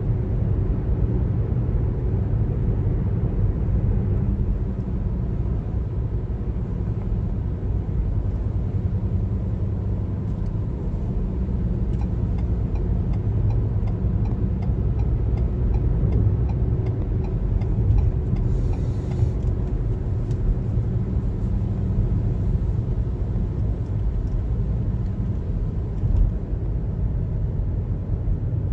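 Steady low road noise of a car driving on a highway: tyre and engine rumble, with a brief hiss about two-thirds of the way in.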